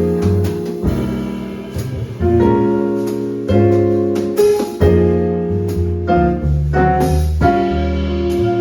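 Live small-group jazz: piano playing sustained chords, struck about once a second, over bass, with light drum and cymbal taps.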